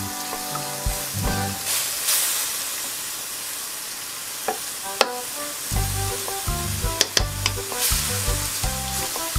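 Minced pork sizzling as it cooks in a little boiling broth in a nonstick wok. A wooden spatula stirs it, with a few sharp knocks against the pan, the clearest about five and seven seconds in.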